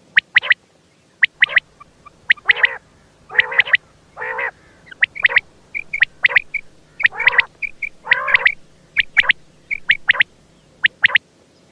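Quail calling over and over: short, rich calls alternating with sharp high chips, about one or two a second with brief gaps between.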